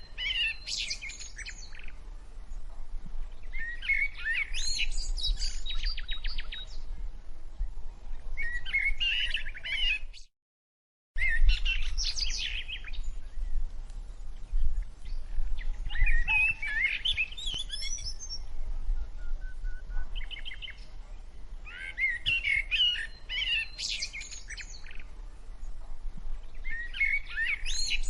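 Small songbird singing in short chirping, warbling phrases that recur every three to four seconds. The sound cuts out completely for about a second, roughly ten seconds in.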